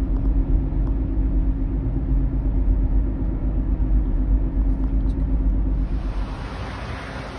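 SUV engine idling with a steady low rumble. About six seconds in the rumble fades and a steady fan-like hiss takes over.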